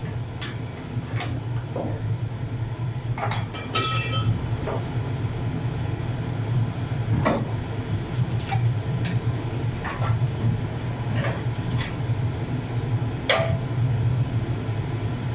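Hand tools clicking and knocking against car parts during engine-bay disassembly, with one ringing metallic clink about four seconds in, over a steady low hum.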